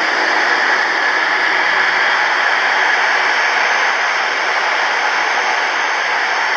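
Jet airliner's engines running steadily: a constant, even rush of noise with a faint high whine, unchanging throughout.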